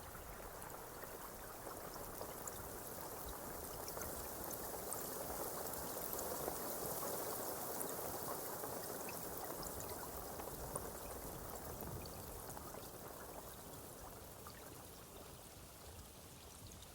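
Steady rain falling, with scattered fine drop clicks; it grows heavier toward the middle, then eases off toward the end.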